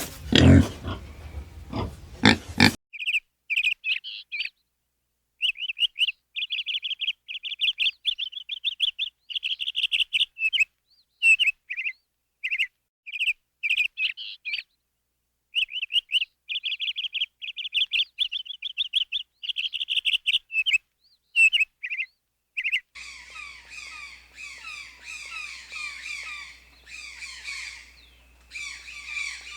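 Small birds chirping in quick high runs with short breaks. From about 23 s a fuller, fainter chorus of many overlapping chirps comes in over a low hum. It is preceded by a loud animal call that cuts off abruptly about three seconds in.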